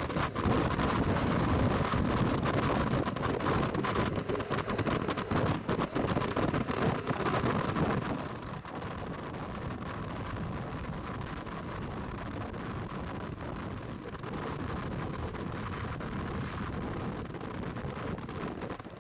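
Wind rushing over the microphone of a moving motorcycle, with the vehicle's running noise underneath. It is louder and gustier for the first eight seconds or so, then settles to a steadier, lower rush.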